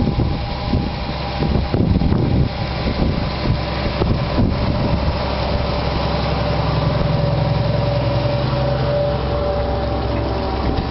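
Diesel tractor engine running steadily, with some wind noise on the microphone.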